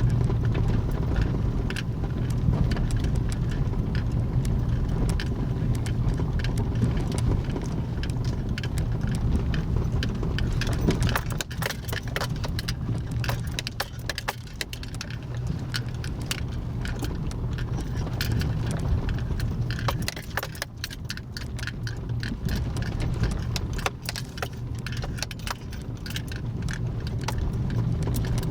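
Steady low rumble of a moving vehicle, overlaid by many small rattles and clicks.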